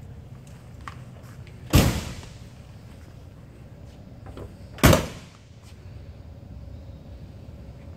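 A car door slamming shut twice, about three seconds apart, each slam a solid thud with a short ring-out.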